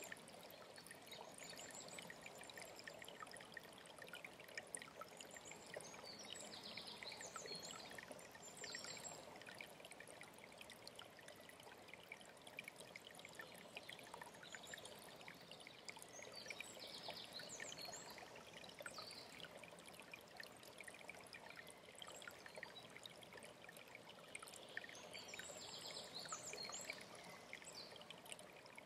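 A stream of running water, trickling and splashing steadily, with a songbird singing a short high, rapid phrase three times, about every nine seconds.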